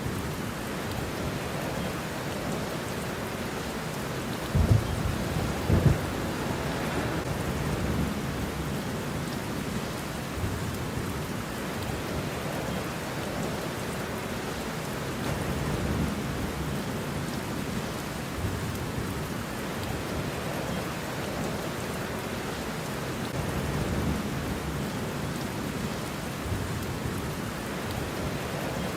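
Steady rain with thunder: a close, sharp crack of thunder about four and a half seconds in and another about a second later, then softer low rumbles later on.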